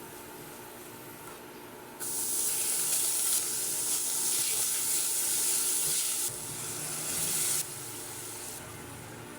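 Kitchen tap running into a sink for about five and a half seconds: it is turned on suddenly, eased lower partway through, then shut off abruptly.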